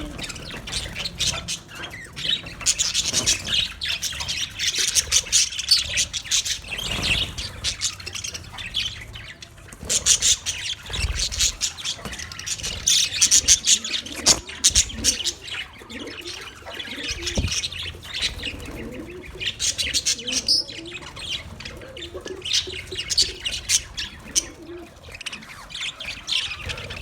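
A flock of budgerigars chirping and chattering, many high calls overlapping, swelling and easing in waves.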